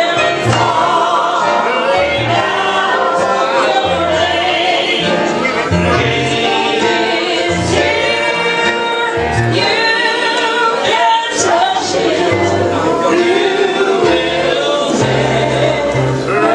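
Gospel song sung by a group of voices with instrumental accompaniment, held bass notes changing every second or so beneath the singing.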